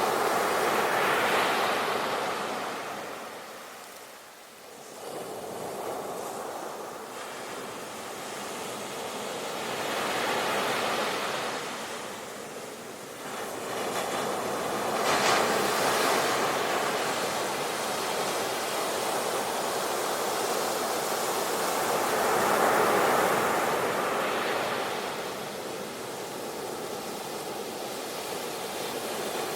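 Ocean waves breaking on a shore, the surf swelling and falling away every several seconds with a steady hiss between.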